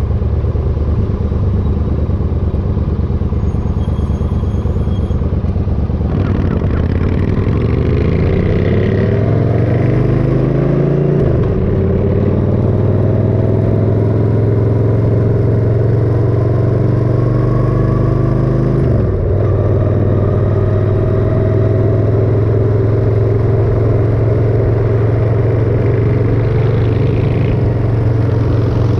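Motorcycle engine under way. It pulls up through the revs from about six seconds in, drops back as a gear is shifted, climbs again, shifts once more past the halfway point, then holds steady at cruising speed.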